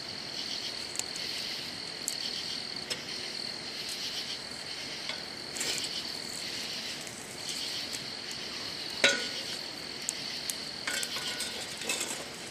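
A steady, high chorus of night insects chirring. Over it come scattered sharp pops and snaps from a burning wood campfire, the loudest about nine seconds in.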